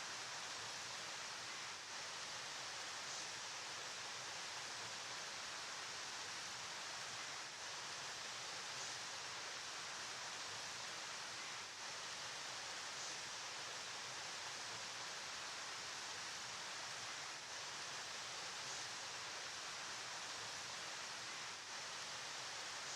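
Flowing river water rushing steadily, an even hiss with no change throughout.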